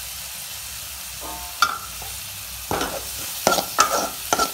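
Chopped onions, garlic and green chillies sizzling with a steady hiss in a steel kadai. A steel spoon stirs them, scraping and clinking against the pan several times in the second half.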